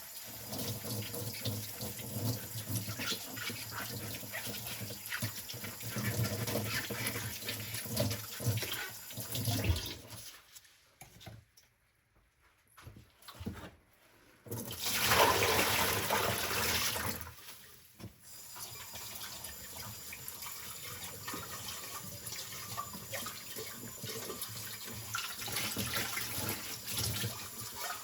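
Dishes being washed by hand at a sink: water running with many small clinks and knocks, a lull of a few seconds about ten seconds in, then the tap gushing loudly for a couple of seconds before the washing noises go on more steadily.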